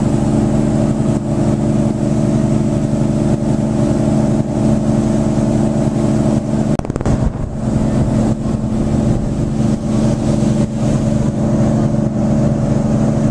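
Passenger boat's engine droning steadily while underway, with a rough rumble of wind on the microphone.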